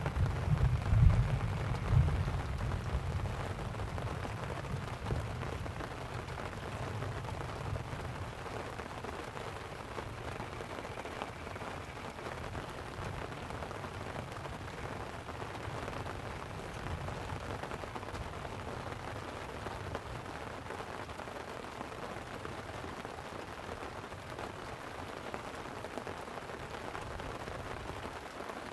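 Light rain falling steadily on a tent. A low rumble of thunder dies away over the first few seconds.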